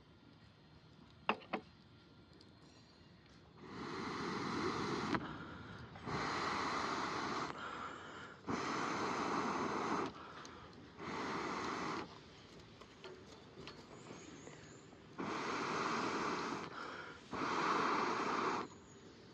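Six bursts of rushing, breath-like blowing noise, each about one to one and a half seconds long, separated by short pauses, with two sharp clicks just before them.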